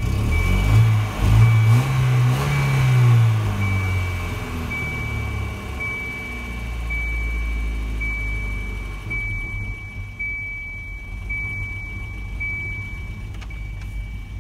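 1993 Volvo 240's 2.3-litre four-cylinder engine revved briefly, rising and falling over the first few seconds, then idling. The owner calls the idle rough and is weighing a sensor fault against a fuel fault. A high beep repeats about once a second throughout.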